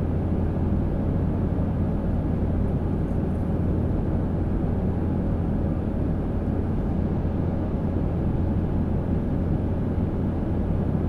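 Jet airliner in flight: a steady low rumble of engine and airflow noise with a faint constant hum, unchanging throughout, as heard inside the cabin.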